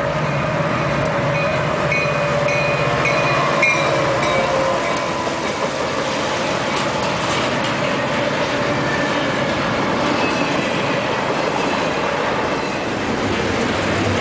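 Diesel-hauled intermodal freight train passing close: locomotive followed by double-stack well cars, with rail noise and wheel clatter. Steady and intermittent high tones sound over the first few seconds, then an even rolling rumble of the cars.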